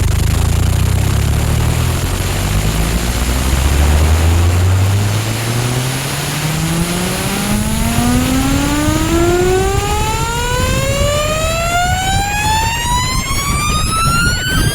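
Sound-system loudspeakers playing loud. A deep pulsing bass runs for the first few seconds, then a slow tone sweep rises steadily from deep bass to a high pitch, with many overtones, over a constant hiss.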